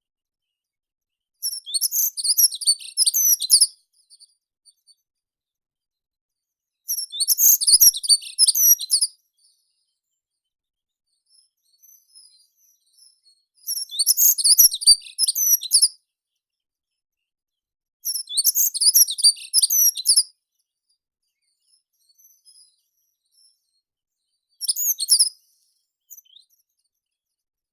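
A songbird singing short, rapid phrases of high twittering notes, five times, with pauses of a few seconds between them and a few faint chirps in the gaps.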